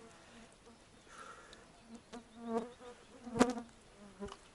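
Insect buzzing close by, coming and going in short spells, with one sharp click about three and a half seconds in.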